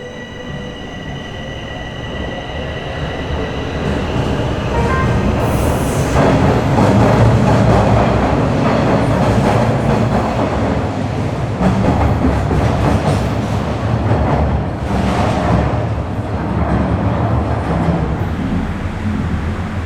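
Bombardier Toronto Rocket subway train pulling away and picking up speed. A faint steady whine is heard in the first few seconds, and the sound builds over about six seconds into a loud, steady rumble of wheels on rail.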